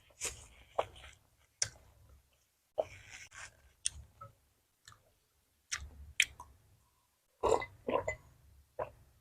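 Close-miked eating sounds: a person chewing food with wet mouth clicks and smacks in short, irregular bursts and pauses, loudest about three quarters of the way through.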